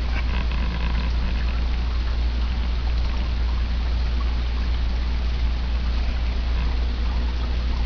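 Water steadily trickling and pouring down a small three-tier reptile-enclosure waterfall, over a steady low hum.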